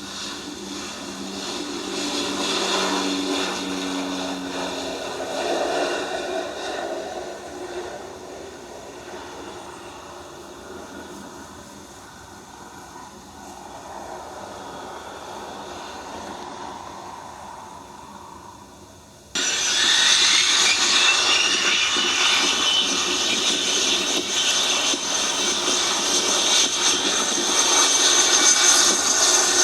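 Jet airliner engines. A jet's noise swells and then fades over the first two-thirds. About two-thirds through, a much louder jet engine sound cuts in abruptly, with a high turbine whine rising in pitch.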